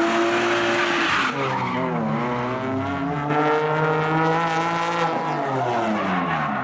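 Drift car sliding, its engine revving hard with tyre screech loudest in the first second or so. The engine pitch dips and climbs again, is held high, then falls away near the end.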